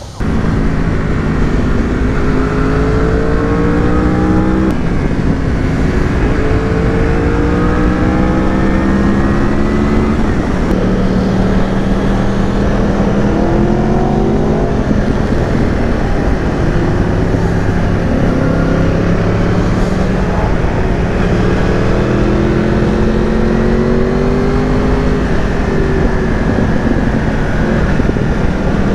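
Yamaha R1's inline-four engine under hard acceleration, its pitch rising through each gear and dropping at every upshift, again and again, over a steady rush of wind noise.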